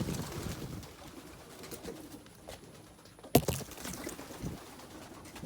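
Young racing pigeons cooing in their loft, a low rolling murmur, with one sharp clack a little over three seconds in.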